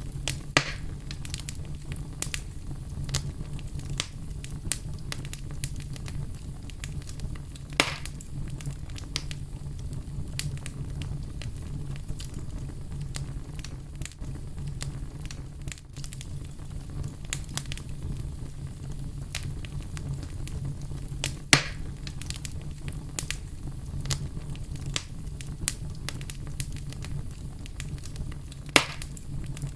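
Fire crackling steadily over a low rumble, with frequent small snaps and a few louder pops, one just after the start, one about 8 seconds in, one about 22 seconds in and one near the end.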